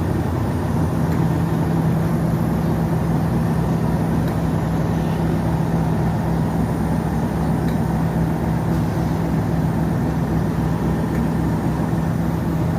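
Diesel train running with a steady, unchanging drone and a constant low hum.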